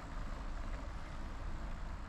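Wind buffeting the microphone of a bike-mounted GoPro during a ride, a fluttering low rumble over a steady rush of air and tyre noise.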